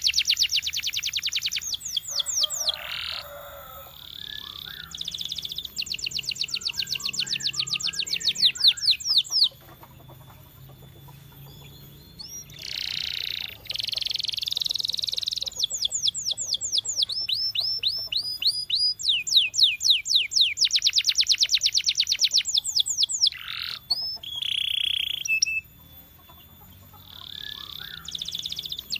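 Domestic canary singing: a string of rapid trills, each phrase a fast run of the same high note repeated many times a second, then a switch to another phrase. The song breaks off twice for a couple of seconds.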